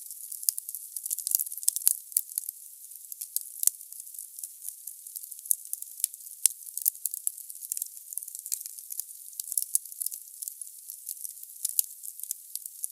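Wood fire burning in a fireplace: a steady hiss with dense, irregular crackling of the logs and a few sharper pops.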